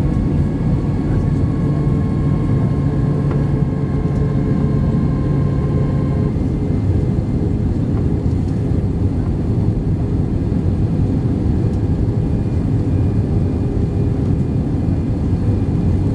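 Steady cabin noise inside an Airbus A320-232 in flight, the low rumble of its IAE V2500 engines and airflow on approach. A set of steady hums drops out about six seconds in, and a faint high tone comes in near the end.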